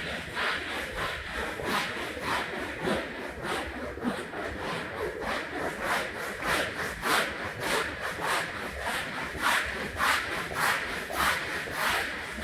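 Rhythmic back-and-forth strokes of a hand tool rubbing over a soiled rug, about two a second.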